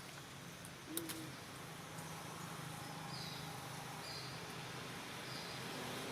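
Outdoor ambience with short, high bird calls repeating about once a second, and a sharp click about a second in.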